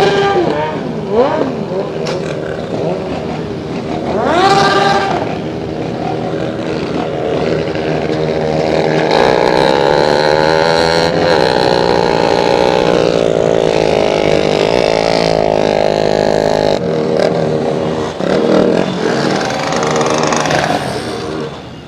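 Several motorcycle engines running together. Short revs rise and fall in pitch in the first few seconds, then a dense, fairly steady blend of engines fills the middle before it thins near the end.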